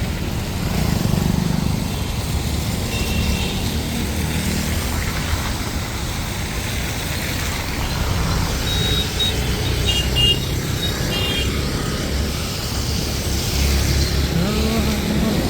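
Steady road traffic noise, with a few brief high chirps about three seconds in and again around nine to eleven seconds in.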